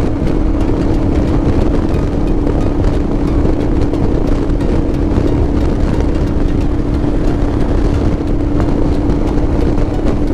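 Motorcycle cruising at a steady speed, its engine holding one unchanging note under heavy wind rush on the rider's microphone.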